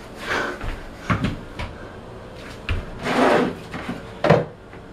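A few short scrapes and knocks of a plastic cooler being handled, its freshly cut hole edge rubbing, with one longer scrape about three seconds in and a sharper one near the end.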